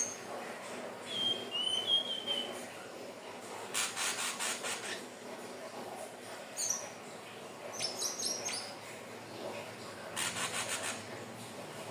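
Indigo flycatcher (sikatan ninon) calling: short high thin whistles and quick downward-sweeping notes, with two brief dry rattling series in between.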